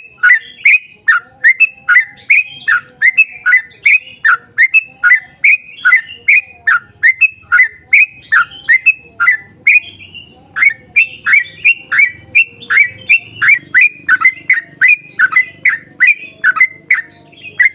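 Yellow-vented bulbul (trucukan) calling in a long rapid run, a string of quick down-slurred notes about three a second with a short pause about halfway through. This is the long rolling 'ropel panjang' call.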